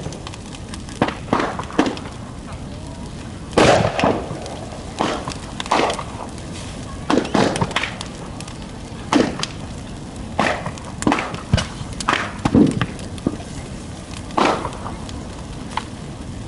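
Large bonfire burning, with irregular sharp pops and cracks about once a second, the loudest a little over three and a half seconds in and near the end.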